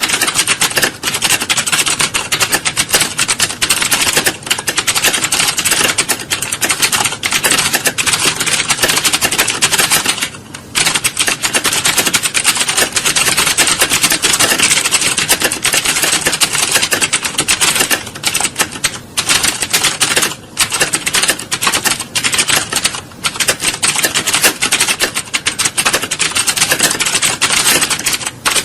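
Fast, continuous typing on a computer keyboard: rapid keystrokes packed closely together, with a few brief pauses, the longest about ten seconds in.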